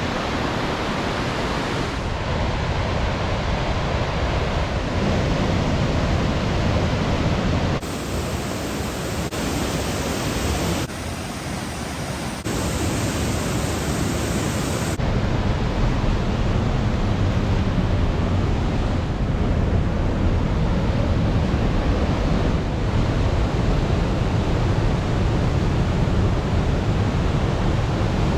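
Conwy Falls waterfall rushing as one steady wash of falling water. It changes abruptly in tone a few times, about two, eight, eleven, twelve and a half and fifteen seconds in.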